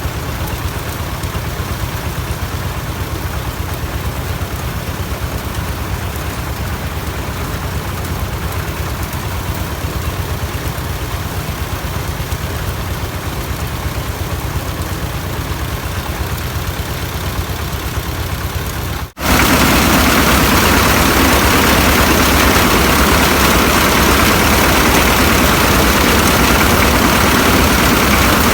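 An engine running steadily. It breaks off for an instant about two-thirds of the way through, then carries on louder and fuller.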